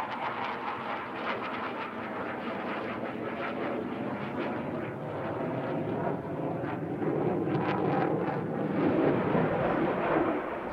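Jet noise from a Panavia Tornado IDS's twin RB199 turbofan engines as the aircraft flies its display, a steady roar that swells louder in the second half.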